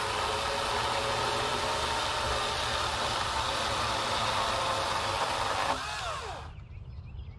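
A small engine running steadily at an even speed, then shut off about six seconds in, its pitch falling as it winds down.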